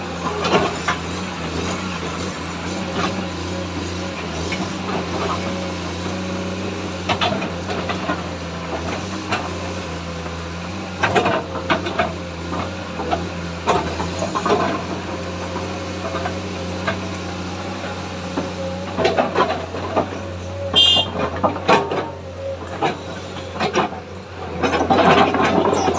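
Excavator diesel engine running steadily, with repeated knocks and clanks of the working machine. There is a brief high squeal about three-quarters of the way through, and a louder burst of clatter near the end.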